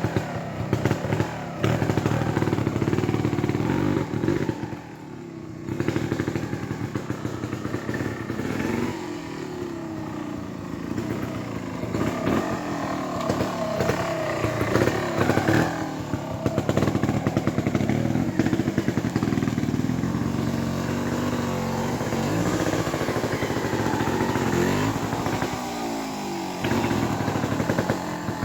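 Trials motorcycle engine being blipped and revved over and over as it works through an obstacle section, its pitch rising and falling with the throttle. It drops low briefly about five seconds in.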